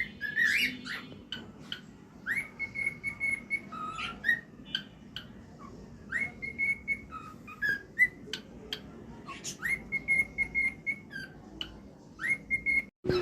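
Male cockatiel whistling its song: a note that swoops quickly up and then holds a steady whistle for about a second, repeated four or five times, with short chirps and clicks in between.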